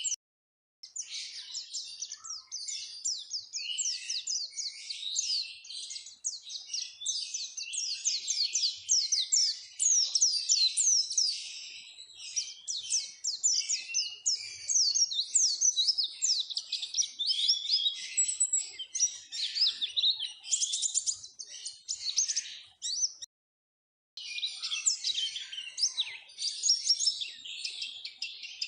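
White-eyes (pleci) singing: a fast, high-pitched twittering song of rapid chirps and trills, almost continuous, broken by two short silences, one just after the start and one about 23 seconds in.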